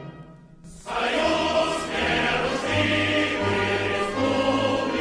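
Background choral music: a choir singing, coming in about a second in after a brief quiet dip.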